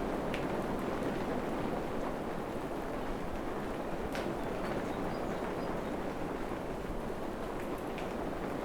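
Steady rain falling in a forest, an even hiss with a few sharper drips and some faint, short high peeps.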